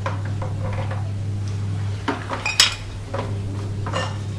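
Metal gas stove parts clinking and knocking as they are handled, a few separate clinks with the sharpest about two and a half seconds in, over a steady low hum.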